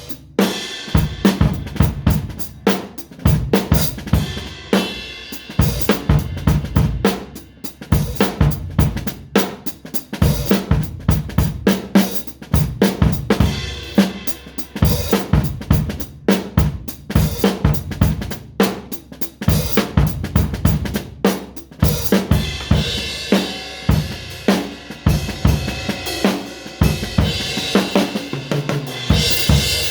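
A drum kit being played in a busy, continuous groove: kick drum, snare and cymbal hits. The cymbals wash louder in the last third.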